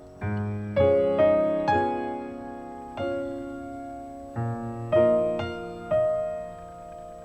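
Slow, gentle piano music: single notes and chords struck one after another and left to ring and fade.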